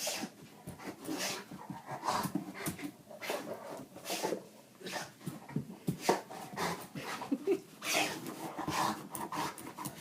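Dog whimpering and panting as it paws and bites at a metal Master Lock padlock, with irregular scratching and clattering of the lock.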